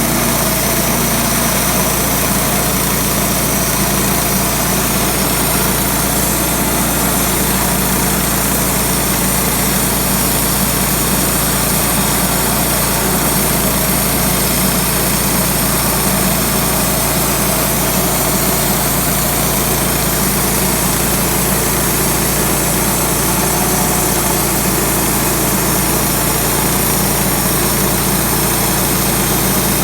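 Sawmill running steadily, its engine holding one even speed without revving up or down.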